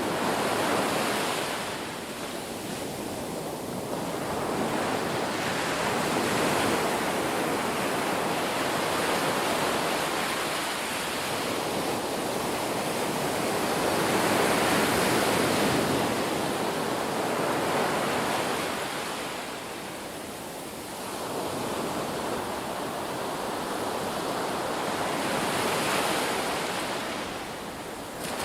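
Ocean waves breaking and washing on a shore, the surf swelling and easing every several seconds.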